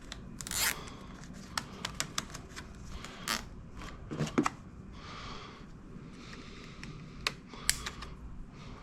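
Irregular small clicks, taps and rustling scrapes from hands handling wiring and plastic parts, with a couple of louder knocks.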